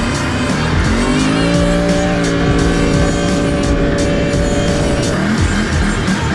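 Can-Am four-wheeler engine revving up about a second in, held at high revs, then dropping off around five seconds in, with music underneath.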